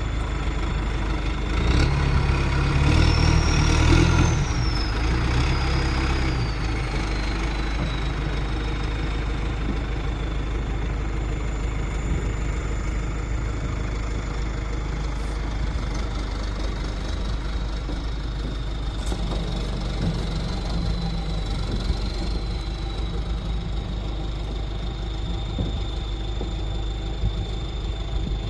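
Tow vehicle's engine and road noise while driving. About two seconds in it grows louder for a few seconds as the engine pulls harder. A thin high whine rises and falls back, then holds steady.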